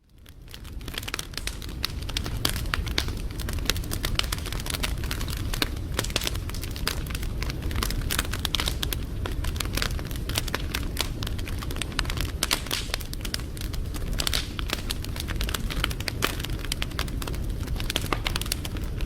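Wood fire crackling, with many irregular pops and snaps over a steady low rumble of burning. It fades in from a brief silence at the start.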